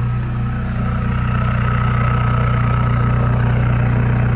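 Volkswagen diesel engine idling steadily through a straight-piped exhaust just after a cold start, a deep even drone with a faint higher whine above it.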